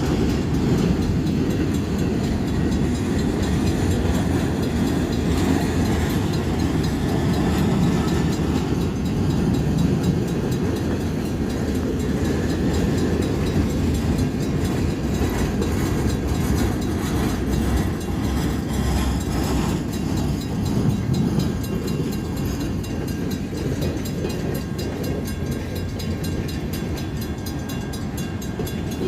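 Freight train rolling past, a steady low rumble of cars on the rails that eases off slightly near the end.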